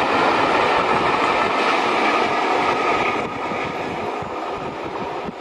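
Passenger coaches of a steam-hauled train running past on the rails: a steady rush of wheel and rail noise that drops away about three seconds in as the last coaches go by and the train recedes.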